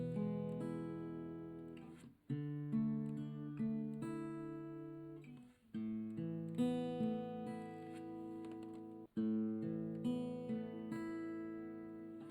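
Background music: acoustic guitar strumming chords, each chord struck sharply and left to ring and fade, with a new one about every three to four seconds.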